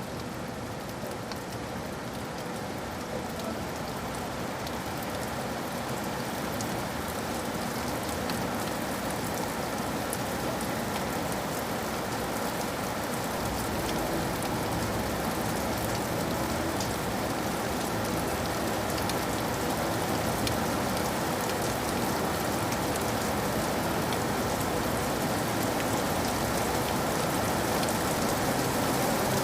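Steady rain falling on a surface: a dense, even hiss with scattered ticks of individual drops, slowly growing louder.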